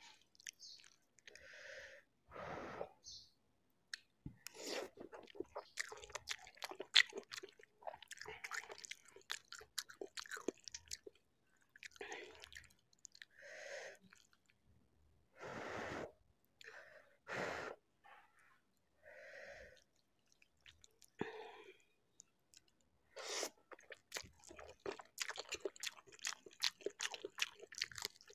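Close-miked mouth sounds of eating spicy Maggi instant noodles: wet chewing, smacking and slurping, broken by short breathy puffs of breath now and then. A denser run of crisp crunching comes near the end.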